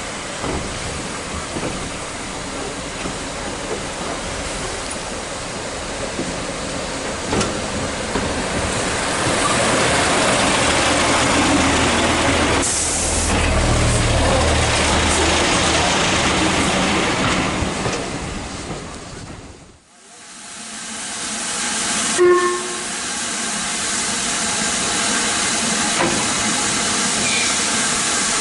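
Steam-hauled train on the move, a steady rushing with steam hiss that builds up through the middle. It drops away sharply about two-thirds through and comes back as a steady rush with one short knock a couple of seconds later.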